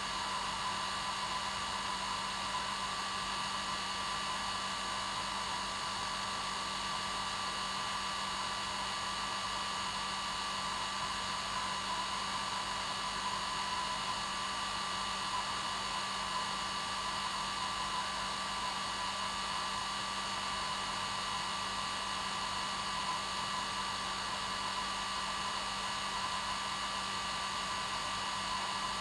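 Hair dryer running steadily on its normal setting: an even, unchanging rushing hiss with a steady motor hum and whine under it.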